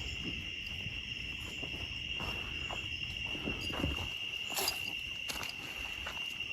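Steady high-pitched chorus of night insects, with scattered crackles of footsteps in leaf litter, two of them louder a little past the middle.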